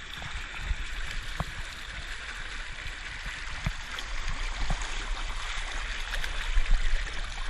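Water running down a water slide in a steady rushing hiss, with low uneven rumbling of wind buffeting the microphone.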